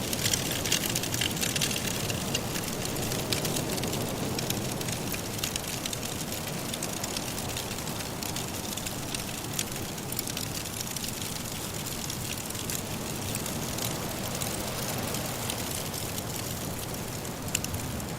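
Wood fire crackling in a fireplace: many small sharp pops, thicker in the first few seconds and sparser later, with one louder pop near the end. Under them is a steady low rush of wind from a soft snowstorm.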